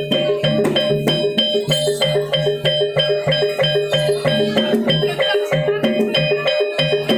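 Javanese gamelan accompaniment for a barongan dance: struck metallophones play quick, evenly repeating pitched notes over a steady drum pulse.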